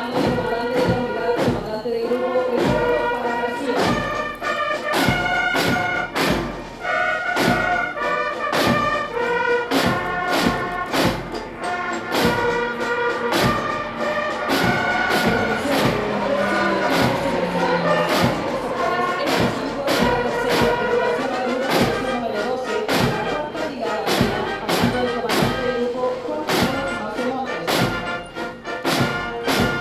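Military brass band playing a march, brass melody over a steady bass-drum beat.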